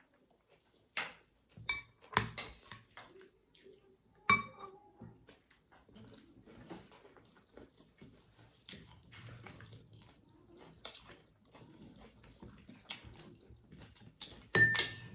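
Spoons and plates clinking now and then during a meal, with faint eating sounds in between; a loud clink of a dish near the end.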